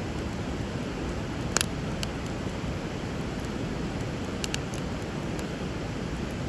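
Bonfire crackling with a few sharp pops, the loudest about a second and a half in, over the steady rush of flowing river water.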